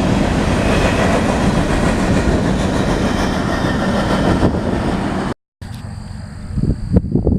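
Freight train cars rolling past close by, a steady loud rumble and rattle of wheels on rail that cuts off abruptly about five seconds in. After the cut, a quieter scene with a steady high-pitched insect buzz and a few bumps.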